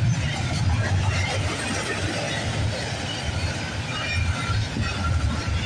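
Double-stack intermodal freight cars rolling past on the rails: a steady low rumble of wheels and cars running over the track.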